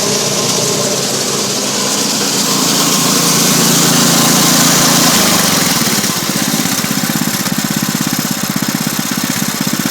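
Snowblower's Honda-clone 6.5 hp single-cylinder engine running steadily. About five seconds in, its note changes to an even, pulsing beat.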